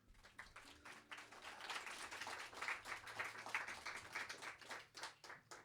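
Small audience applauding, faint in the mixing-desk recording: the clapping builds over the first couple of seconds and thins to a few scattered claps near the end.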